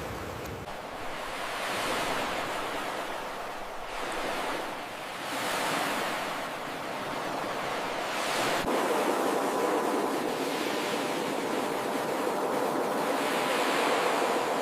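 Ocean surf breaking and washing ashore, swelling and ebbing every couple of seconds at first. About two-thirds of the way in it turns suddenly into a steadier, louder wash.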